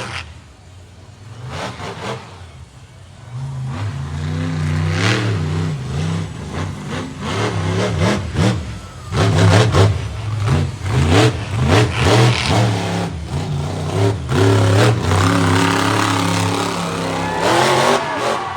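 Monster truck engine revving in repeated bursts, its pitch swinging up and down. The first few seconds are quieter before the revving takes over.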